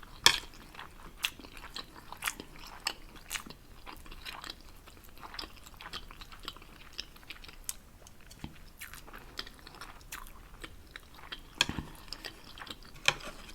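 Close-up mouth sounds of a person chewing Samyang 2X Spicy instant noodles, with many short wet clicks and smacks.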